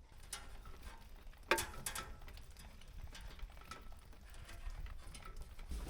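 A few scattered light clicks and knocks of hand work on metal parts, the sharpest about one and a half seconds in, over a faint low hum.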